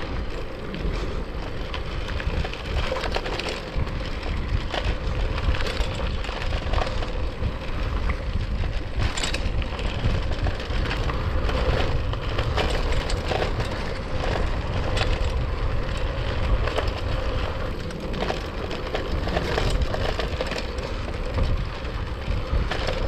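Gravel bike tyres rolling over a dry, bumpy trail, crunching and rattling with a constant stream of small clicks and cracks over a low rumble. The tyres are pumped hard for the road, so the bike bounces over the bumps.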